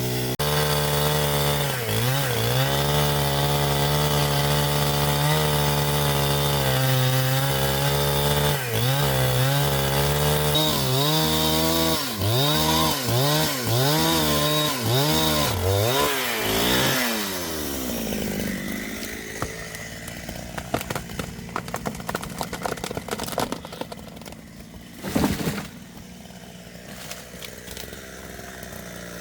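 Chainsaw running at full throttle, its pitch dipping and recovering over and over as it bites into a log. About two-thirds of the way through it winds down and falls quiet, leaving a few knocks and one loud thump.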